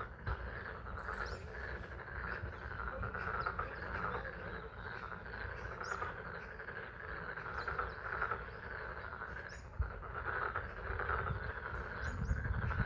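A chorus of frogs calling steadily at a pond in spring rain. Light rain falls throughout, and a low rumble swells near the end.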